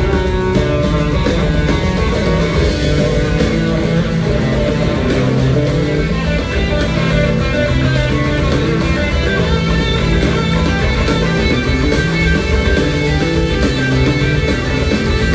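Live blues-rock band playing at full volume: a sustained electric guitar lead rings out over bass and drums.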